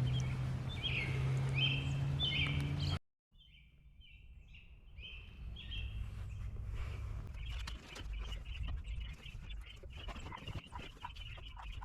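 Wild songbirds calling outdoors in short repeated phrases over a low steady hum. The sound cuts out briefly about three seconds in, then the calls return and turn into a quick run of chirps toward the end.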